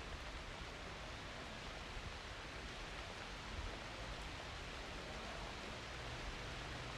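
Steady hiss of rain falling on a city street, with a low hum coming in near the end.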